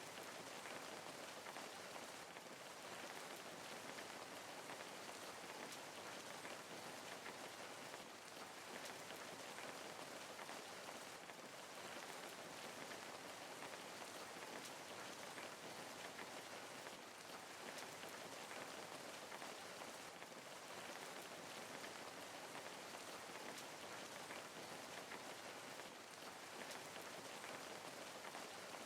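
Steady rain falling on a surface: an even hiss of rain with many small scattered drop ticks, unchanging throughout.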